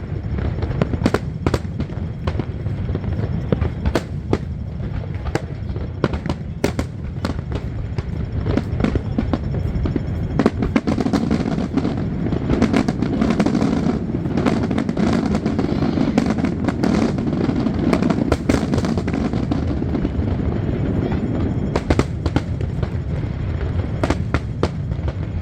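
Fireworks display: a long run of sharp bangs and crackles. It grows densest and heaviest through the middle, then thins back to scattered bangs near the end.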